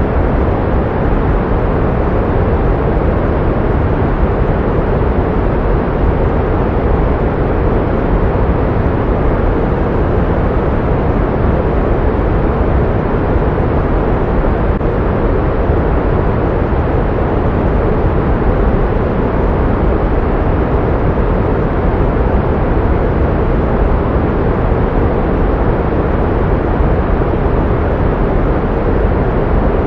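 Steady pink noise: an even, unchanging hiss, fuller in the lows and fading out in the highs.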